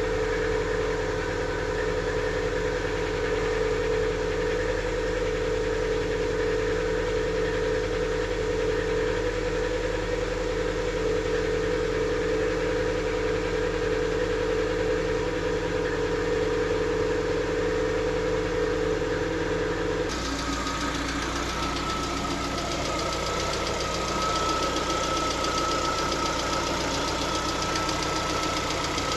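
Lada Vesta engine idling while warming up, with a fast, even ticking from the hydraulic valve lifters, which the owner says knock from about 60 °C until the engine reaches 90 °C. About twenty seconds in, the tone of the running changes abruptly and the ticking stands out more clearly.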